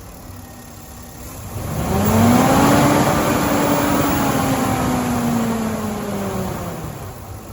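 Ford F250 pickup's V8 engine idling, then revved once about one and a half seconds in. The revs are held for a few seconds and then sink slowly back to idle near the end.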